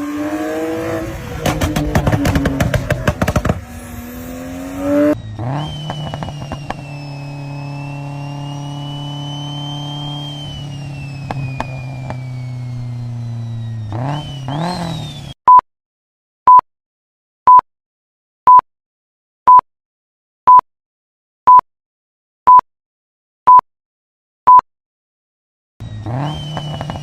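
A performance car engine revving with a fast run of exhaust crackles. It cuts to a different car's engine running steadily with a high whine that climbs and then falls, and ends in a short blip of revs. Then come ten short, loud, high beeps, one a second, a countdown timer for guessing the car.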